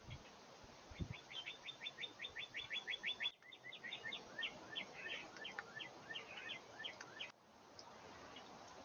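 Songbird singing outdoors: a fast trill of about eight short notes a second, then a run of varied chirps and short notes that cuts off abruptly about seven seconds in. A single low thump comes about a second in.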